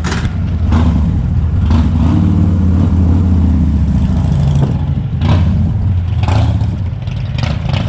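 Motorcycle engine running and revving as the rider pulls away, a deep steady note with its pitch rising and falling.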